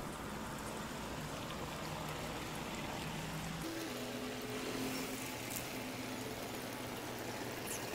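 Boat under way: a motor running steadily under a hiss of rushing water and wind. The engine note shifts higher a little under four seconds in.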